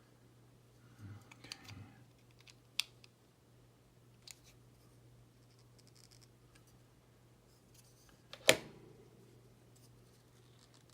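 Small plastic model-kit parts being handled and turned: light scratches and scattered clicks, with one sharper click about eight and a half seconds in.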